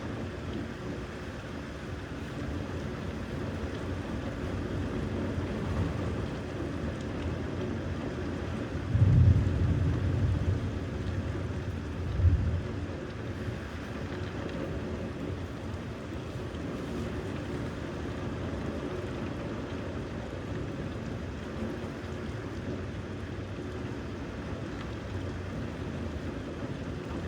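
Steady rain with two deep rumbles of thunder: a longer one about nine seconds in and a shorter one around twelve seconds.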